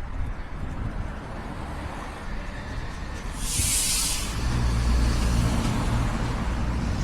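Street traffic: a short hiss of air brakes about three and a half seconds in, then a heavy vehicle's engine running low and steady, getting louder toward the end.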